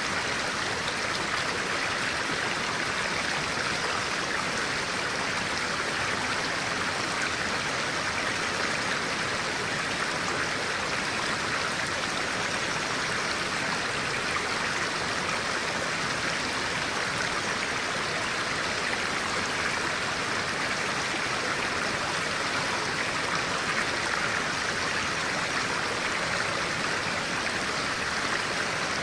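A clear-water stream running, a steady, unbroken rush of water.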